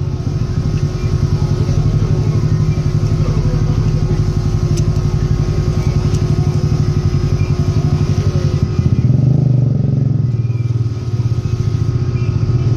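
A Honda 125 motorcycle's single-cylinder four-stroke engine running at idle with a fast, even firing pulse. The revs rise briefly about nine seconds in.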